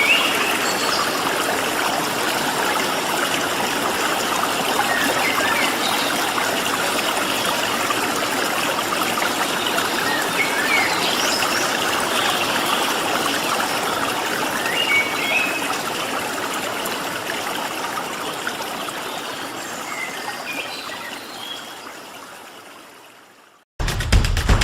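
Stream water running steadily, with scattered short chirps of small birds. It fades out over the last several seconds, and after a moment of silence music with a heavy beat begins right at the end.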